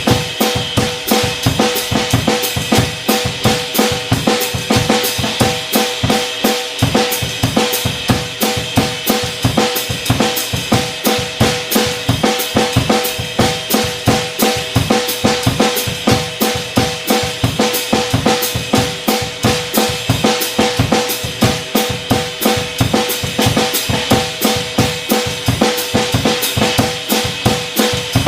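Drum kit playing a samba groove at a tempo of 90: bass drum, snare and cymbals in a steady, repeating rhythm.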